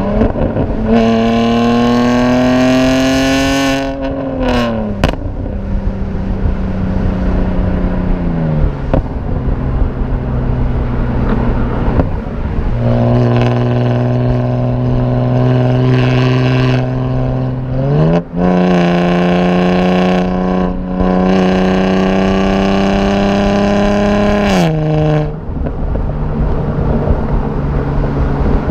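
BMW E90 328i straight-six with aftermarket headers and a performance exhaust, pulling under throttle. Its drone rises in pitch for a few seconds, then drops at a shift and eases off. Later it holds a steady drone, jumps up sharply about two-thirds of the way through, holds again, and drops near the end.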